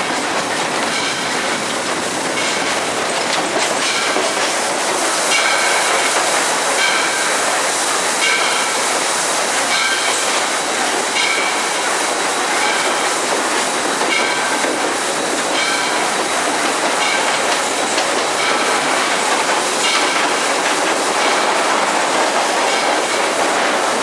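Steady running noise in the cab of Southern Railway 630, an Alco 2-8-0 Consolidation steam locomotive, moving along the line, with the wheels clicking over rail joints about every one and a half seconds.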